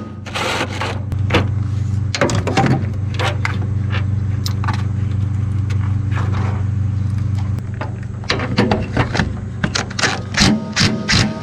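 Mini excavator engine running steadily, with scrapes and clanks as it drags the unpowered skid steer. Guitar music comes in near the end.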